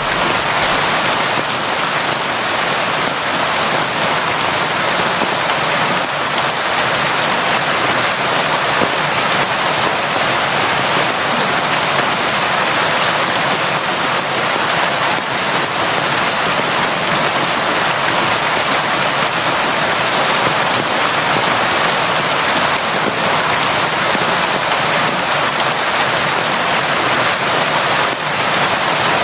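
Steady, heavy rain falling, a dense even hiss of drops hitting surfaces with no breaks.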